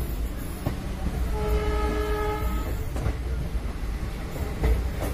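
Rumble of a passenger train running on the track, heard from inside a moving coach by an open window, with a few knocks from the wheels. A train horn sounds once, for about a second, about a second and a half in.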